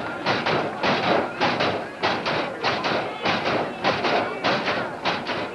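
A steady rhythmic beat of sharp claps or taps, about four a second.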